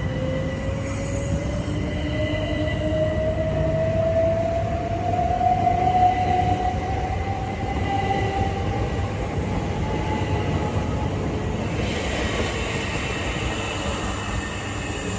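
Electric multiple-unit train pulling away, its traction motor whine rising steadily in pitch for about eleven seconds over a low rumble of wheels on rail. A broader hiss rises near the end.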